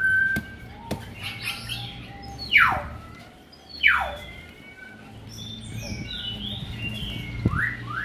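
Birds calling: two loud falling whistled calls a little over a second apart, then softer chirps and a quick rising-and-falling call near the end. A few sharp knocks come from a cleaver being worked into a durian's spiky husk.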